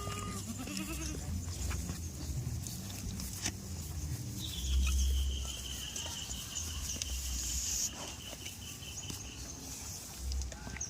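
Goats bleating: a short call at the start and a wavering call about a second in. A long, thin high tone runs through the middle, over steady high hiss and low rumble.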